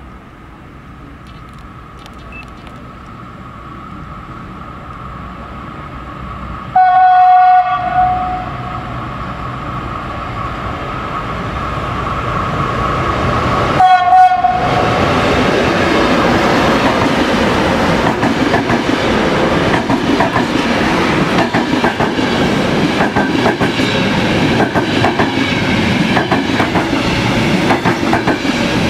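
Electric locomotive hauling a passenger train approaches with a rising rumble and sounds its horn twice: one steady blast of just over a second, then a short one about seven seconds later. The train then passes close by, loud, with its wheels clicking over the rail joints.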